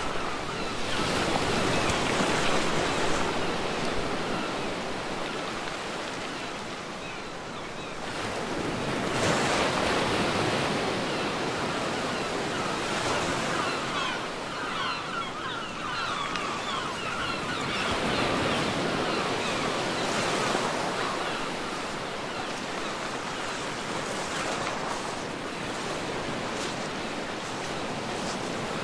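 Ocean waves breaking on a beach, with a steady wash of surf that swells as a new wave breaks about every eight to nine seconds.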